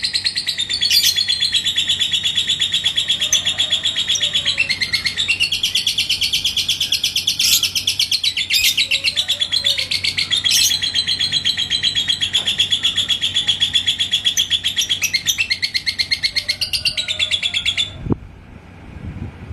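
Lovebird in ngekek, the long unbroken, rapid chattering song, high-pitched and continuous. It stops abruptly near the end, followed by a short low thump.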